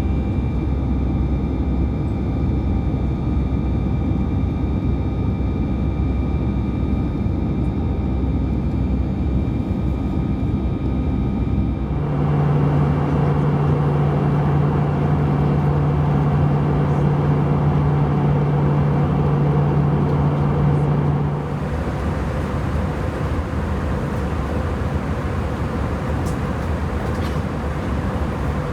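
Airbus A320 cabin noise: the engines and airflow run steadily with a few whining tones. About twelve seconds in, the noise turns louder with a strong low hum, then drops back abruptly about nine seconds later.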